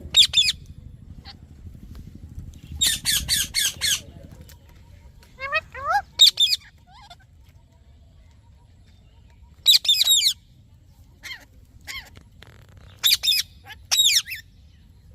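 Parrot screeching in quick runs of several sharp, high-pitched calls, in bursts a few seconds apart with short pauses between.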